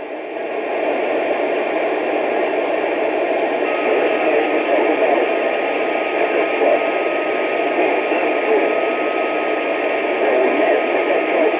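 Radio static: a steady hiss of noise coming through a radio receiver's speaker. A faint steady tone joins the hiss about a third of the way in.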